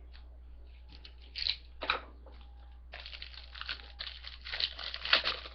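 Foil trading-card pack wrapper being handled and torn open: two short crinkles, then steady crinkling and tearing from about three seconds in.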